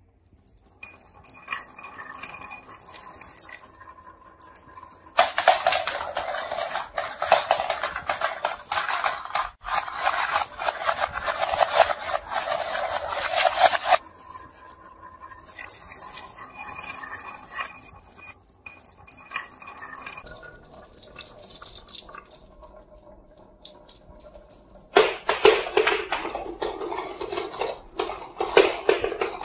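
Marbles rolling and clattering down a wooden marble run, with two long stretches of dense, loud rattle, one a few seconds in and one near the end, and lighter rolling and clicking between them.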